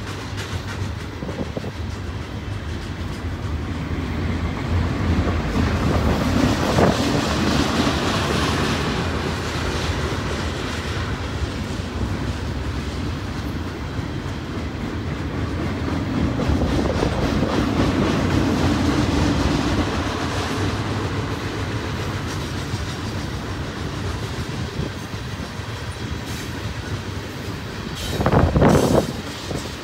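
Loaded freight cars of a long manifest train rolling past: a steady rumble of steel wheels on rail that swells and eases as the cars go by, with a short, louder burst of noise near the end.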